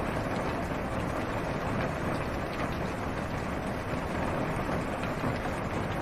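Steady rain falling on a car's roof and windows, heard from inside the car, with scattered faint drop ticks over a low, even rumble.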